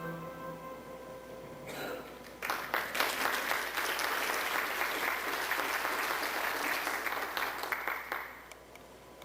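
The last held note of a song dies away, then an audience applauds for about six seconds before the clapping fades out near the end.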